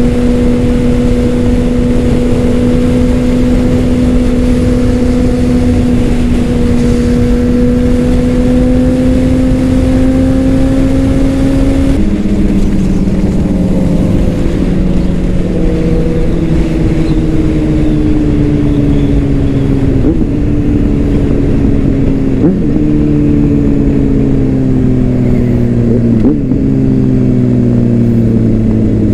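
Honda CBR600RR inline-four on a Leo Vince exhaust, heard from on board while riding. The engine note climbs slowly and steadily, drops abruptly about twelve seconds in, then falls away with three short blips of revs as the bike slows, as on downshifts.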